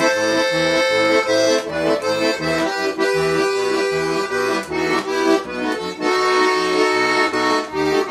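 Accordion playing an instrumental interlude of a Russian gypsy romance: held chords over a bass that pulses on a steady beat, with no singing.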